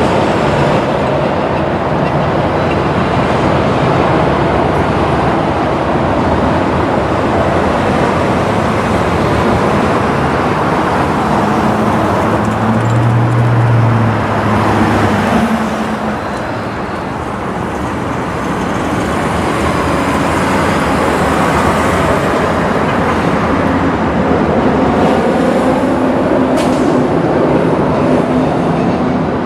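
Freight train rolling past, a steady loud rumble of wheels on rail, with a low engine tone that is loudest about halfway through and then eases briefly.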